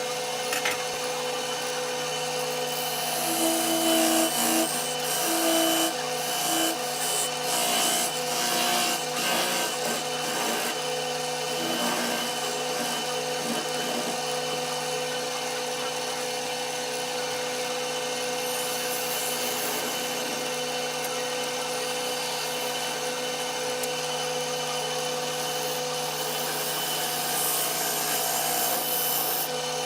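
Wood lathe running with a steady hum while a turning tool cuts a spinning walnut blank, giving an uneven scraping that is heaviest for several seconds in the first third and picks up again near the end.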